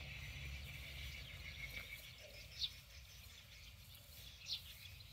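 Quiet open-field ambience: a faint low rumble that fades about two seconds in, and two short high bird chirps about two seconds apart.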